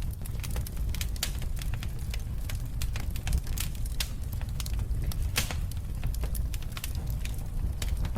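Wood fire in a fireplace crackling, with many irregular small pops and a few louder snaps over a steady low rumble.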